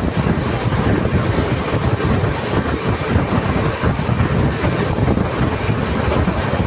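Running noise of a moving express train: a steady rumble of the carriage wheels on the rails, heard at the open carriage doorway.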